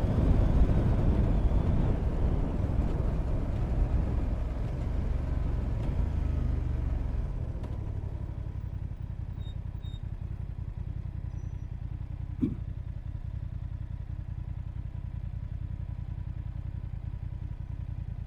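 A motorcycle engine and wind noise from a bike being ridden, easing off over the first seven seconds or so as it slows. It then settles to a quieter steady low running sound. There is one brief sharp blip about twelve seconds in.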